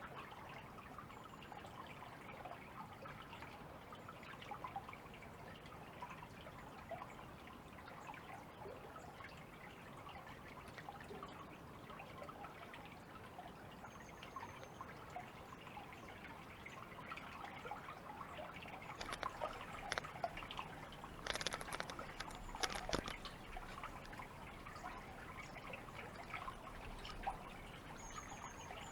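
Faint trickling and splashing water with small scattered drips, busier about two-thirds of the way through.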